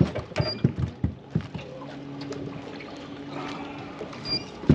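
Knocks and clicks of handling in a small fishing boat after a fish is landed, with a steady low hum for a couple of seconds in the middle.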